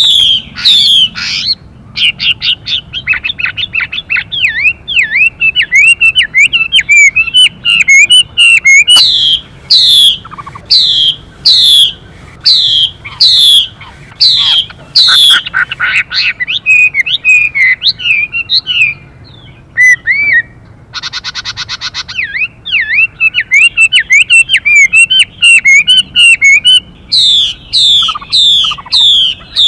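Chinese hwamei (melodious laughingthrush) singing loudly in a fast, varied song: runs of quick downward-slurred whistles repeated several times a second, mixed with rapid warbling trills. About 21 seconds in, a harsh buzzing note lasts about a second and a half.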